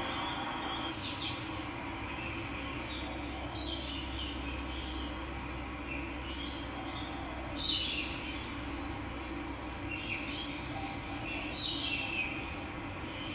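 Steady rush of running water with wild birds calling over it in short chirps now and then. The loudest call comes about two-thirds of the way through.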